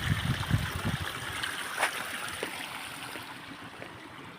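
Steady rush of running water, with low buffeting thumps in the first second and a single sharp click about two seconds in.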